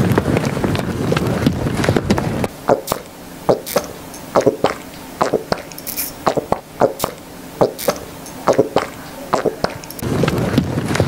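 A steady dense noise for about two and a half seconds, then irregular sharp clicks and knocks, one or two a second, before the steady noise returns near the end.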